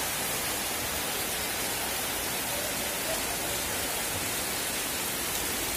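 Heavy rain pouring down onto a paved street, a steady, even hiss.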